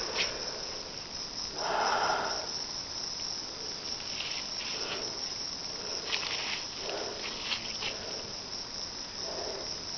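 Steady high-pitched drone of a rainforest insect chorus, with a louder burst of noise about two seconds in and scattered shorter calls over it.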